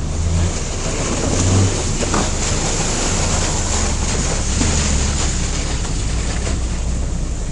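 Off-road vehicle engine running steadily with a low hum, under a constant hiss of noise.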